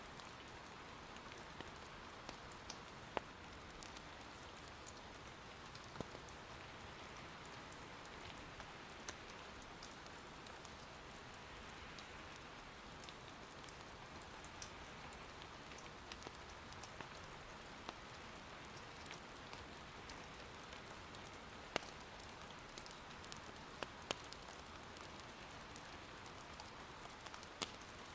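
Steady, soft rain patter, with a few scattered sharp pops from wood burning in an irori hearth fire.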